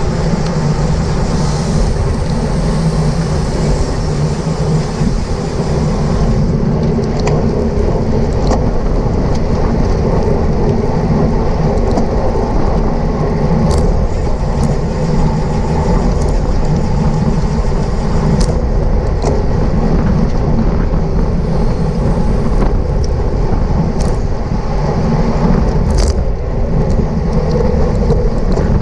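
Steady wind rumble on the microphone of a bicycle racer's camera riding at speed, with road and tyre noise underneath. Scattered sharp clicks come every few seconds.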